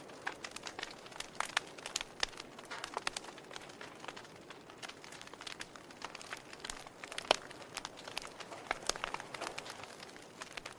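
Wood fire crackling in a fireplace: irregular sharp pops and snaps over a soft steady hiss, with one louder pop about seven seconds in.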